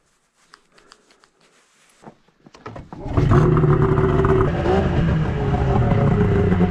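A few light clicks and rattles, then a snowmobile engine catches about three seconds in and settles into a steady idle.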